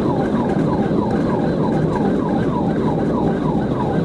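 Police car siren on a fast yelp, about four to five quick falling sweeps a second, over loud road and engine noise from the patrol car at high speed.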